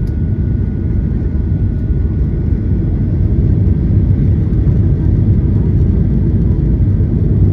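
Cabin noise inside a Boeing 737-800 during its landing: a steady low rumble of engines and airflow that grows slightly louder after a few seconds.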